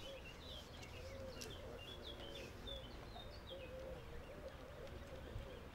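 Faint outdoor ambience: small birds chirping in short, scattered notes over a low steady rumble, with a faint wavering hum underneath.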